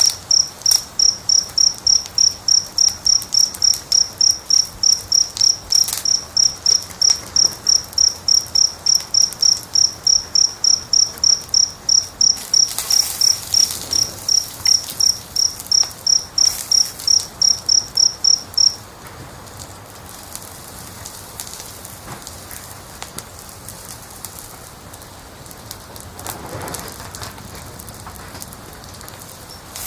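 A cricket chirping in a steady, even rhythm of about three chirps a second, stopping abruptly about two-thirds of the way through. Beneath it, the faint crackling of a wood fire with occasional pops.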